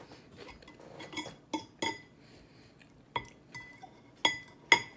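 Metal cutlery clinking against a dish while food is scooped up: about six sharp, briefly ringing clinks spread unevenly, the loudest near the end.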